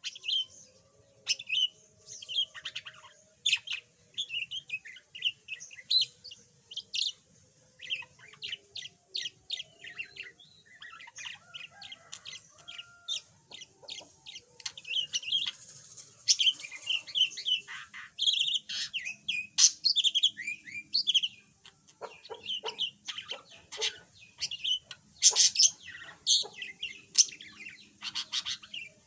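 Budgerigar chattering: a fast, uneven run of short chirps, clicks and warbles, busier and louder in the second half.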